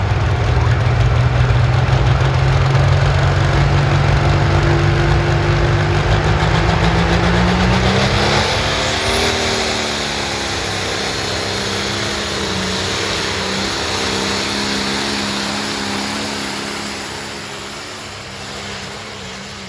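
A pulling vehicle's engine running hard under load, its pitch climbing steadily for about eight seconds and then holding at high revs, fading near the end.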